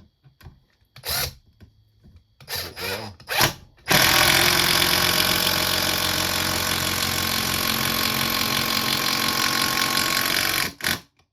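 Hercules 12-volt cordless impact driver driving a 3-inch screw into wood: a few short bursts, then one steady run of about seven seconds that stops abruptly, followed by a brief last burst.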